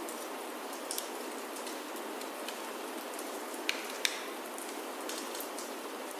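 Steady rain falling on a roof, an even hiss. A few sharp clicks stand out: one about a second in and two close together around the middle.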